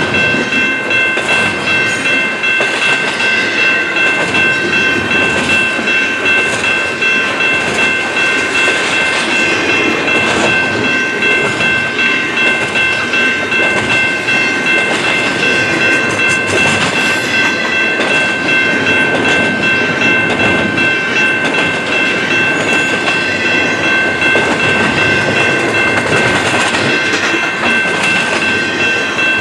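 Intermodal freight train rolling slowly past, its cars' wheels running on the rails, with several steady high-pitched ringing tones held throughout.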